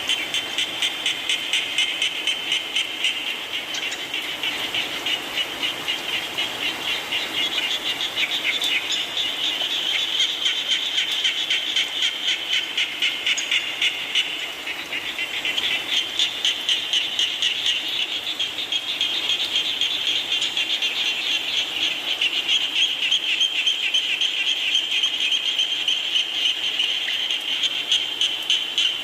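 A dense chorus of frogs calling, a fast high trill that pulses about three times a second, over a steady hiss of rain.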